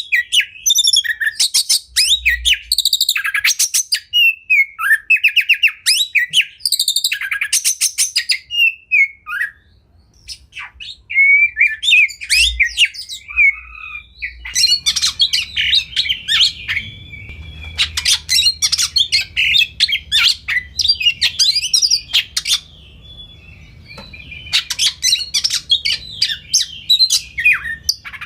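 Oriental magpie-robin (kacer) singing loud, varied song phrases full of fast rattling trills, with a short pause about ten seconds in. A faint low hum comes in about halfway through.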